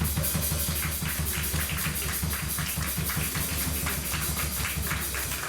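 Live band music with a fast, steady beat, about seven or eight strokes a second over a low, sustained bass.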